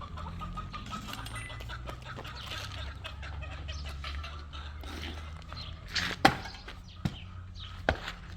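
Chickens clucking over a steady low hum, with three sharp knocks in the second half.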